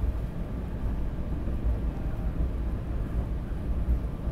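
SEPTA Regional Rail electric commuter train heard from inside the passenger car while riding: a steady low rumble of the running train.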